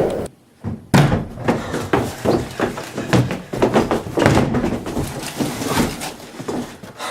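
Hurried footsteps of people running on a hard floor, with knocks and bangs among them; the loudest bang comes about a second in.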